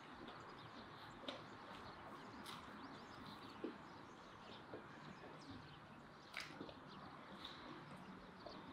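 A person chewing a fried fish cutlet with the mouth closed: soft, scattered lip smacks and mouth clicks about once a second over a faint steady hiss.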